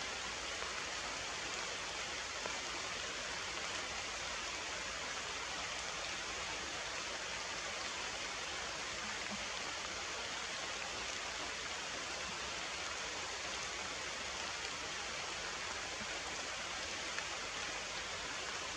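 Heavy rain falling in a steady, even hiss, with a few faint drop ticks.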